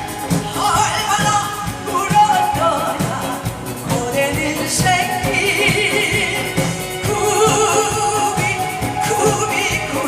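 Trot singing over an amplified backing track with a steady beat, performed live.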